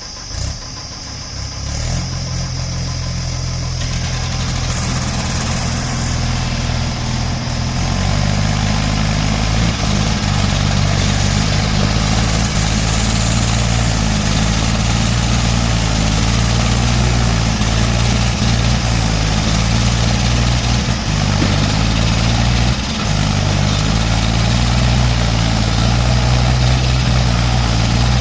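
Tractor engine running hard while the tractor is stuck in mud with its wheel caught. It picks up about two seconds in and again about eight seconds in, then runs on steadily at the higher speed.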